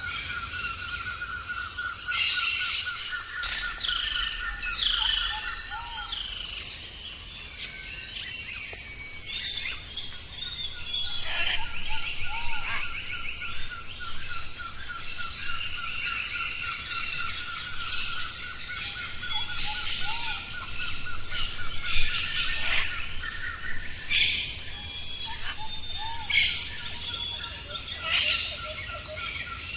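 Several birds chirping and whistling in short calls, over a steady, rapidly pulsing high trill that drops out briefly twice.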